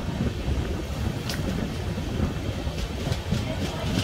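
Passenger express train running, heard from inside a coach: a steady low rumble with sharp clicks of wheels over rail joints, one about a second in and a quick run of them near the end.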